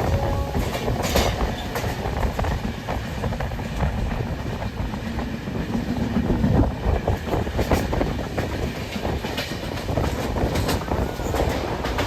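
Indian Railways passenger train running along the track: a steady rumble with the clickety-clack of the wheels over rail joints and a few sharp clicks.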